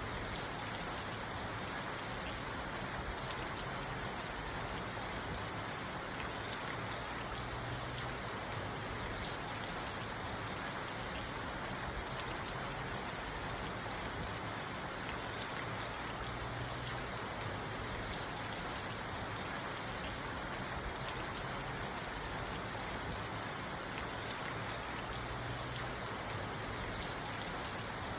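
Steady rain falling on a parked car, heard from inside the cabin: an even hiss with the faint ticking of individual drops on the roof and glass.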